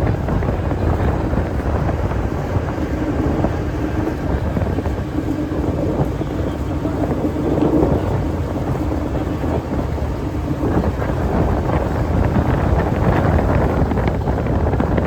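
Wind buffeting the microphone over the steady drone of a tour boat's engine, with a faint steady hum running through it.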